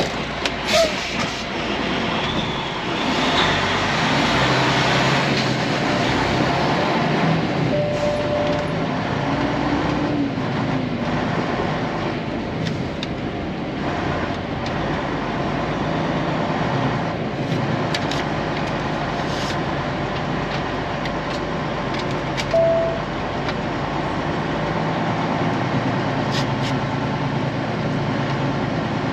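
Semi truck's diesel engine running as the truck pulls away, heard from the cab, its note rising and falling through the gears in the first few seconds, then running steadily; a few short beeps sound along the way.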